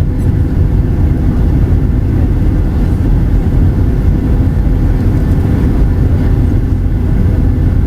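Steady cabin noise inside a Boeing 737-800 with CFM56 engines: a loud, even rumble of engines and airflow, with a thin steady hum above it.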